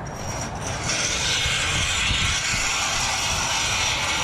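Steady hiss of fast road traffic on a dual carriageway close by, over a low uneven rumble of wind on the microphone.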